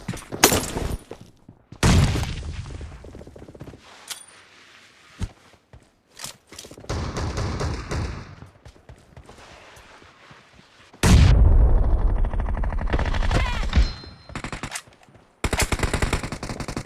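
Video-game gunfire: a few separate shots near the start, a long loud burst about eleven seconds in, and rapid automatic fire near the end.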